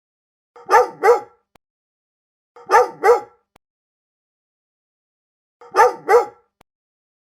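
A dog barking in pairs: three quick double barks, a few seconds apart.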